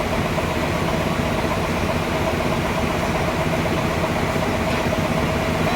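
Sawmill machinery running steadily, a low engine rumble with a constant whine above it.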